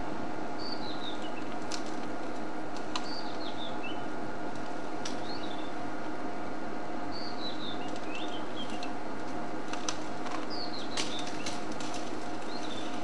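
A bird repeats a short, falling call about every two seconds over a steady low hum, with a few sharp clicks now and then.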